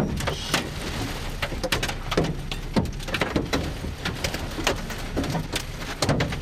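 Hail and heavy rain pelting a storm-chase vehicle: a steady hiss of rain broken by irregular sharp knocks of hailstones striking the body and glass.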